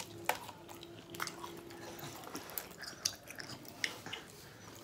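Close-up eating sounds of a corned beef egg roll being bitten and chewed, with several sharp crunches and wet mouth clicks spread through the chewing.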